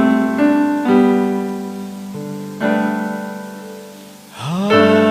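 Keyboard (electric piano) accompaniment for a worship song, playing held chords. A new chord comes about a second in and another a little later, each fading away, then a rising swoop leads into a louder chord near the end.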